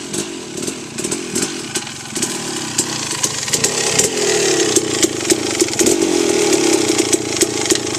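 KTM 300 MXC two-stroke dirt bike engine running under throttle, its pitch wavering and then climbing and holding from about halfway through, with many sharp ticks over it.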